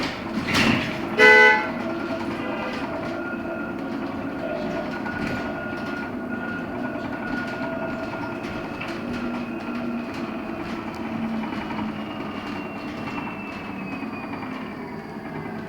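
LiAZ-6274 electric bus heard from inside while driving: the electric drive's whine runs over steady road and cabin noise, its pitch falling over the last few seconds as the bus slows. About a second in there is a short, loud horn honk.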